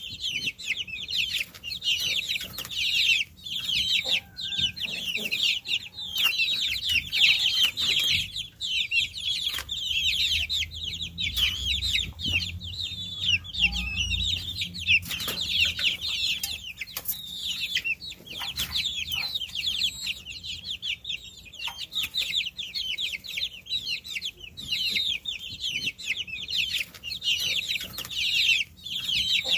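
A group of baby chicks peeping continuously, many overlapping high-pitched chirps.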